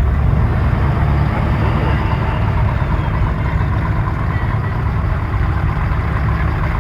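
Car engine running at low speed: a steady, low rumble that keeps an even level.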